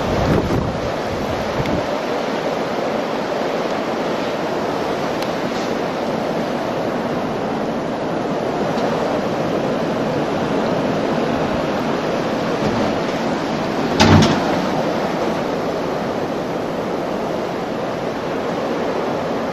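Strong blizzard wind blowing steadily against the microphone. A single gust thump stands out about fourteen seconds in.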